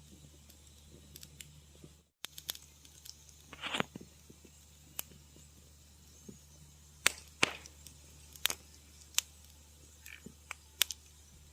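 Wood fire crackling in a fireplace: irregular sharp pops and snaps, a few of them loud, with a short hissing pop just under four seconds in, over a low steady hum.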